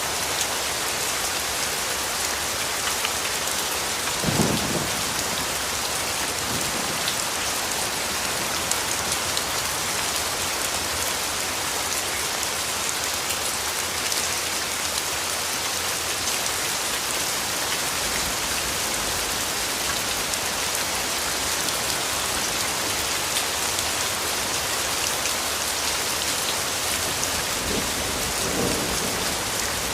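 Steady heavy rain hiss, with brief low rumbles of thunder about four seconds in and again near the end.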